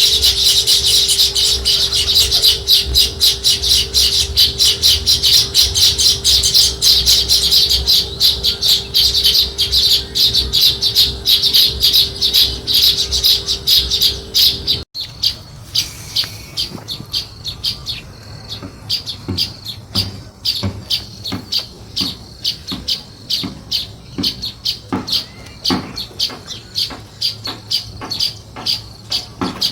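House sparrows chirping rapidly and continuously, many short chirps overlapping. About halfway through there is a sudden break, after which the chirping is quieter and more spaced out.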